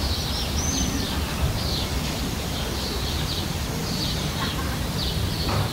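Small birds chirping: short high calls repeating every second or so over a steady low rumble.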